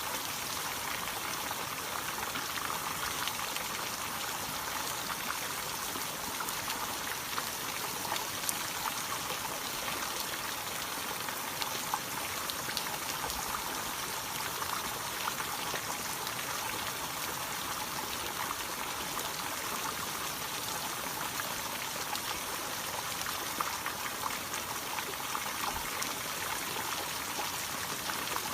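Waterfall water falling and splashing steadily: an even, hissy rush with little low rumble and a few small splashes.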